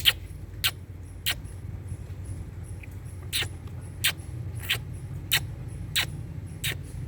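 Indian ringneck parrot giving short, sharp chirps in a regular series, about one every two-thirds of a second, pausing for about two seconds early on before resuming, over a steady low hum.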